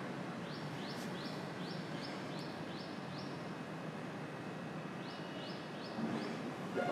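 A bird chirping: a run of short, rising high-pitched chirps, about three a second, that pauses and then comes again. A steady hiss sits under it.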